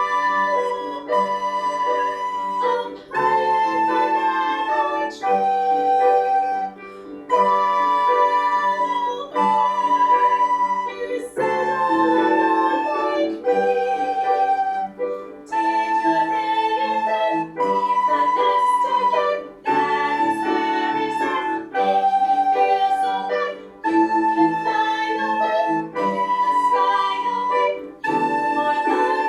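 Soprano recorder playing a slow counter melody of long held notes B, A and G, stepping down and back up in a repeating pattern, over a recorded instrumental backing track with keyboard chords.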